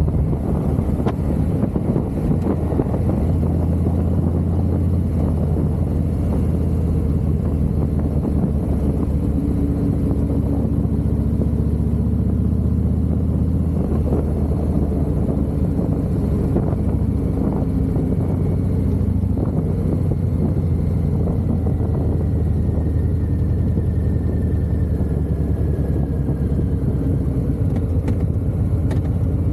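Harley-Davidson V-twin motorcycle engine running steadily while the bike is ridden, its low exhaust note rising and falling slightly with the throttle.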